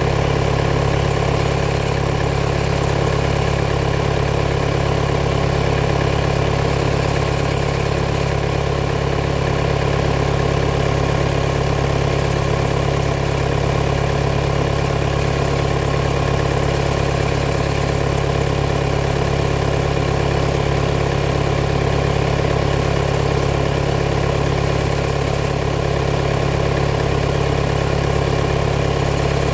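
2018 Volkswagen Tiguan's 2.0 TDI four-cylinder diesel idling steadily after a cold start. A faint high hiss comes and goes every few seconds over the idle.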